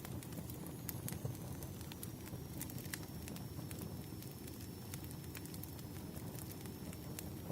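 Campfire burning with a steady low rumble of flame, and scattered sharp crackles and pops from the burning wood.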